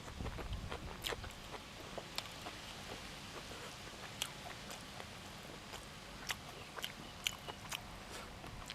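A person eating close to the microphone: irregular wet chewing and biting, with scattered small clicks and crunches.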